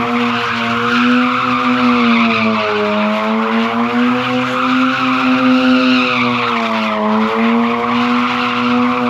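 Mazda RX-8's Renesis two-rotor rotary engine held at high revs in a burnout, its pitch sagging and rising a little, while the spinning rear tires squeal and scrub.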